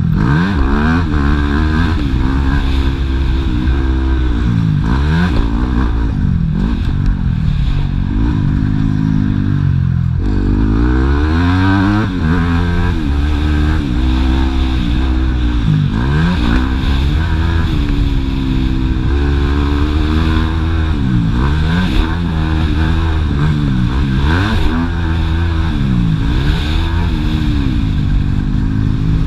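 Yamaha YZ250F four-stroke single-cylinder motocross engine running hard, its revs rising and falling over and over as the bike accelerates and backs off around the track.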